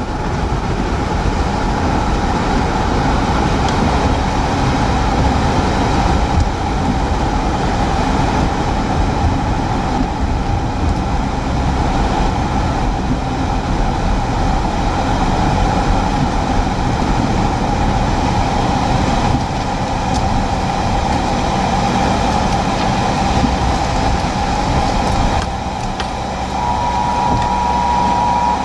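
Steady rumble of a car driving, heard from inside the cabin, with road and wind noise throughout. Near the end a steady high electronic beep comes in, breaks off briefly and starts again.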